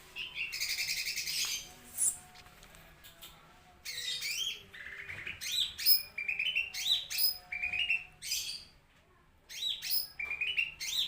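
A green leafbird (cucak ijo) singing in loud bursts: a rapid trill first, then strings of quick rising-and-falling whistled notes, with brief pauses between phrases.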